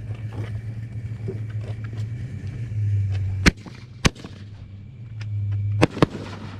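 Fireworks popping: four sharp bangs. Two come about half a second apart in the middle, and two in quick succession near the end.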